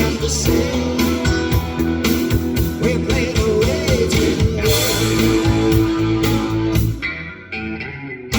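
Rock music with electric guitar, bass and drums, an instrumental passage without singing, played back through a car's three-way active component speaker system with a 10-inch subwoofer. About seven seconds in the music briefly drops in level, then the band comes back in.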